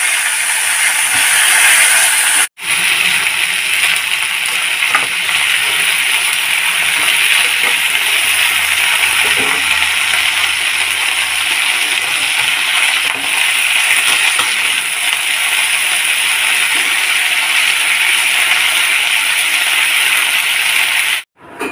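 Cauliflower florets and potato pieces frying in hot oil in a kadhai, a steady loud sizzle. It cuts out for a moment about two and a half seconds in.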